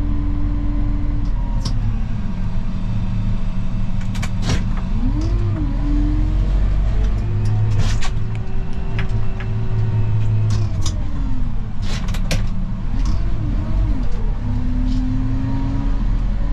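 Snow plow vehicle's engine running, its pitch rising and falling as it works back and forth. Sharp knocks come in small clusters about four, eight and twelve seconds in.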